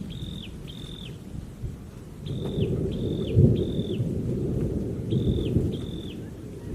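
A bird calling repeatedly: each call is a short high note that holds steady, then drops at the end, in groups of two or three. Under it runs a low rumbling noise with a thump about three and a half seconds in.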